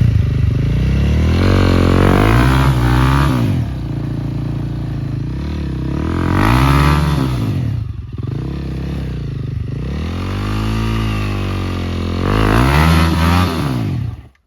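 Enduro motorcycle engine revving, its pitch rising and falling about four times, then cutting off abruptly near the end.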